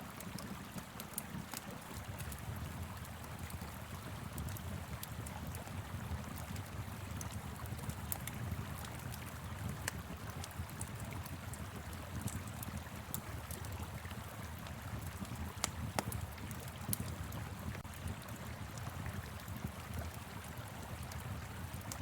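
Wood fire crackling with scattered sharp pops over the steady rush of a flowing river, with a low rumble underneath.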